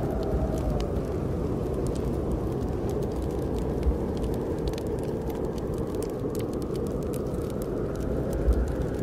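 Snowstorm wind blowing steadily with a low rumble, a faint howl sliding down in pitch about a second in, and sparse sharp crackles from a wood fire burning in a fireplace.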